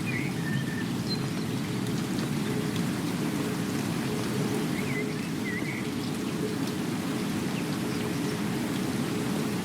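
Steady rain falling, with a few faint short chirps in the background.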